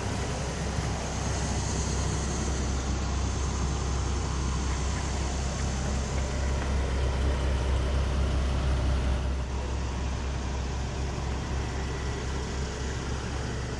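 Nissan 370Z's 3.7-litre V6 idling steadily, a low even hum with no revving.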